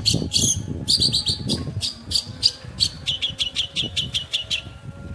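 Long-tailed shrike (pentet) singing a fast run of short, high chirps, several a second, that stops about four and a half seconds in, over a low rumble.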